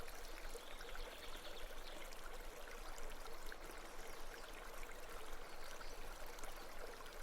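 Soft, steady running water of a babbling brook.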